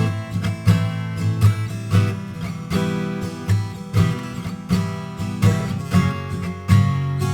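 Acoustic guitar strummed in a steady rhythm of chords, about one and a half strums a second, with no singing.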